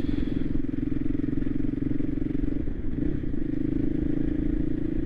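Voge 300 Rally's single-cylinder engine running at a steady pace while riding, with a brief drop and recovery in revs about halfway through.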